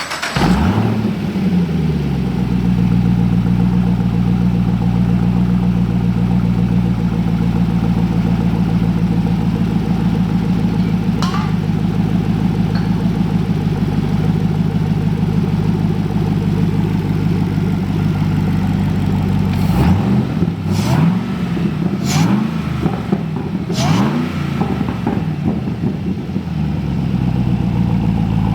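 Supercharged 6.2L LSA V8 engine of a 2015 Camaro ZL1 running: it comes down from a high flare to a steady idle in the first two seconds, holds that idle, then is blipped four times in quick succession before settling back to idle.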